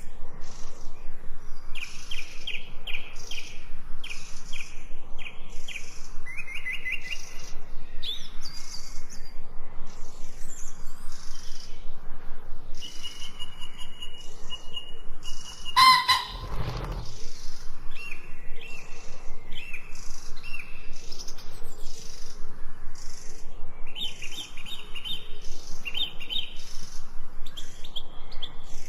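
Songbirds chirping and singing together, with quick runs of repeated short notes and trills over a steady stream of high chirps. About sixteen seconds in, one louder, fuller call stands out.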